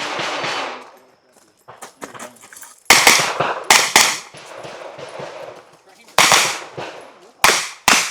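Pistol shots fired during a timed USPSA stage run: about six loud shots, starting about three seconds in, in quick pairs and singles with pauses between, each with a short echo.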